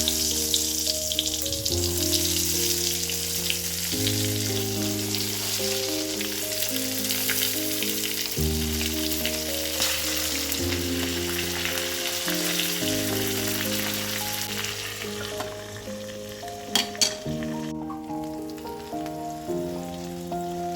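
Food sizzling as it fries in a pan, a steady hiss that eases off about fifteen seconds in, over soft background music with slowly changing chords. Near the end there are two sharp knocks.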